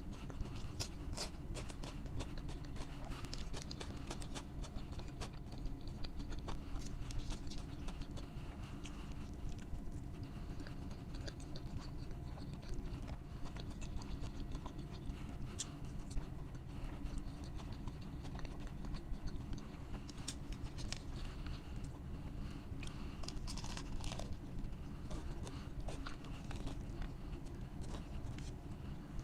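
A person chewing and crunching food, with many irregular crisp crackles and smacks over a steady low hum.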